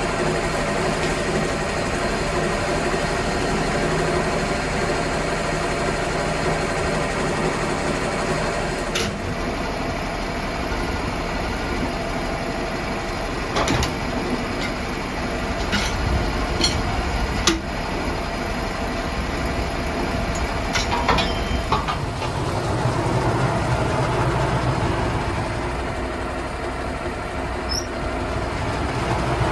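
Sawmill engine running steadily, with a scattered series of sharp knocks and clanks through the middle stretch.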